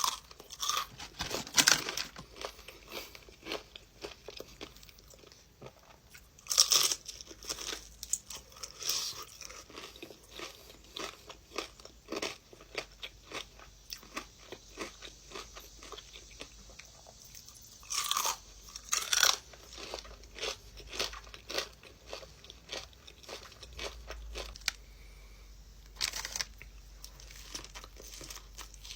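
Close-miked eating: crunchy bites of food and steady chewing, with louder biting crunches near the start, about 7 seconds in, around 18 to 19 seconds, and about 26 seconds in.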